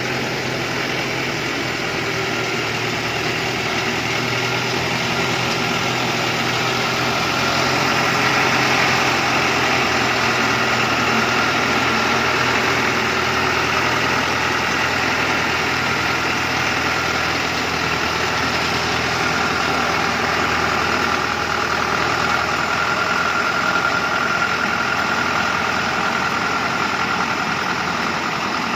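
Heavy truck's diesel engine running steadily at a low, even speed on a Dongfeng truck.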